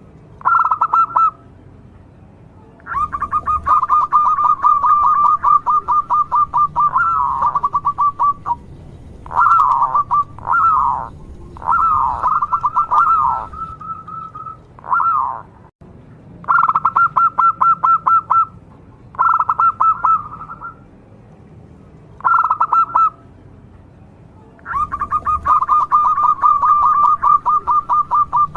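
Zebra dove (perkutut) singing: bouts of rapid, stuttering cooing notes, some long and some short, with a few slurred coos in between, repeated after short pauses.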